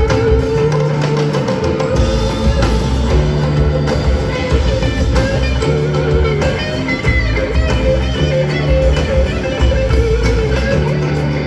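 Live band playing an instrumental passage led by guitar, with bass and drums keeping a steady beat.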